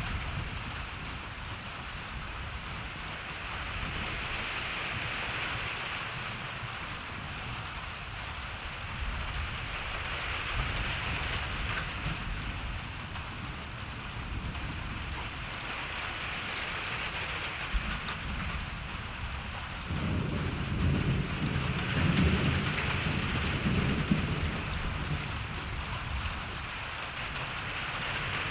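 Steady rain during a thunderstorm, with thunder rumbling low underneath. About two-thirds of the way through, a louder roll of thunder comes in and rumbles for several seconds before fading back under the rain.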